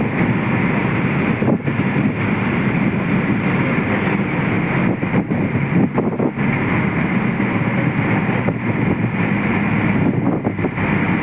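A boat under way at sea, its motor running steadily, with wind blowing on the microphone.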